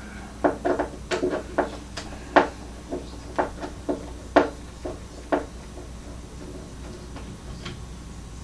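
Hands knocking and clattering on a Cerwin-Vega H15 HED speaker cabinet while working on its crossover: about a dozen short, sharp knocks and clicks, which stop about five seconds in. A steady low hum runs underneath.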